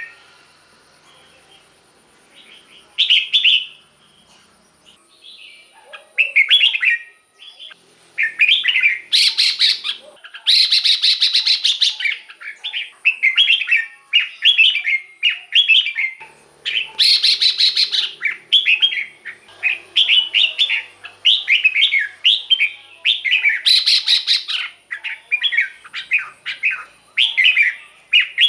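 Red-whiskered bulbul singing short, bright warbled phrases, a few seconds apart at first and then in a near-continuous run. Three longer harsh, buzzy bursts break in.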